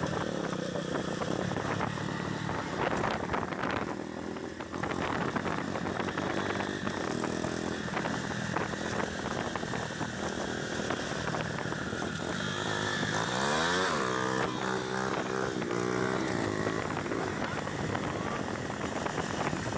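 Honda CB300's single-cylinder engine running under way, rising steeply in pitch about thirteen seconds in as it revs up.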